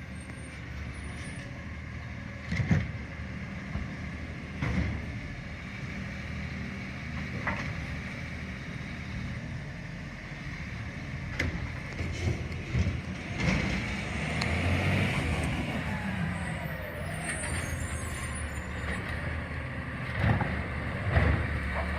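CNG garbage truck running steadily, with several sharp knocks at intervals and a sound around the middle whose pitch rises and then falls.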